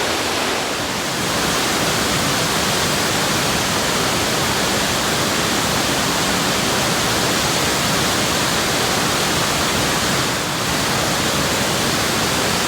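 Laurel Fork Falls, a large waterfall, pouring: a loud, steady rush of water.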